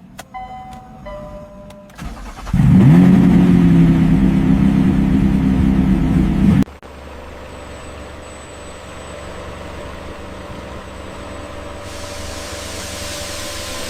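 A few short electronic chime tones, then the Lamborghini Urus's twin-turbo V8 starts about two and a half seconds in, its pitch sweeping up and settling into a loud, steady run that cuts off abruptly after about four seconds. A quieter steady engine hum follows and slowly grows louder.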